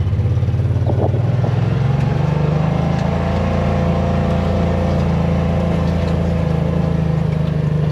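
Engine of a ride-on farm vehicle running at a steady speed, its pitch rising a little about two seconds in and then holding.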